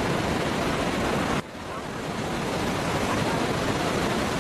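Steady roar of falling water from a large waterfall. About a second and a half in, the sound drops suddenly and builds back up.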